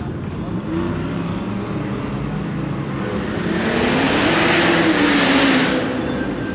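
A car drives close past with its engine note rising and then falling. The rush of its exhaust and tyres swells to loudest about four to five seconds in, then fades.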